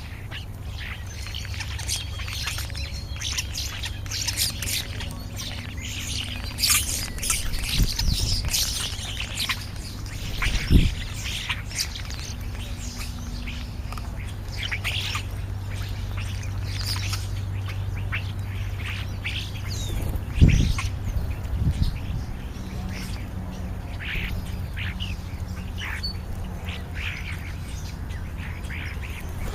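Birds calling and chattering in many short, high notes, busiest in the first third, over a steady low hum. Two dull thumps stand out, about 11 and 20 seconds in.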